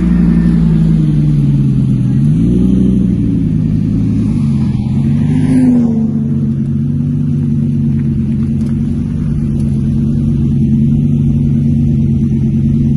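Car engine running under way, its pitch dropping and rising a couple of times in the first few seconds, then holding a steady cruising note.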